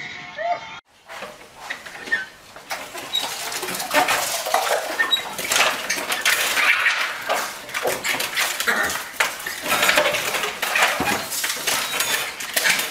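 Rapid clattering and knocking as small dogs leap and scrabble against a wooden front door and tug at mail in its metal mail slot, the flap rattling. It starts suddenly about a second in and grows busier and louder a few seconds later.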